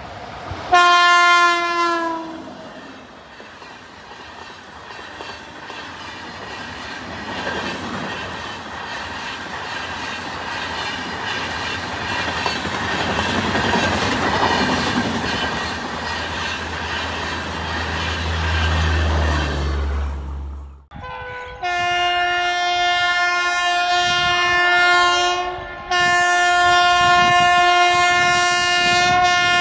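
An Indian Railways electric locomotive sounds its horn briefly, then a long passenger train passes close by with a building rumble and the clickety-clack of wheels over rail joints. After a sudden cut about two-thirds through, a WAP-7 electric locomotive blows two long, steady horn blasts with a short break between them.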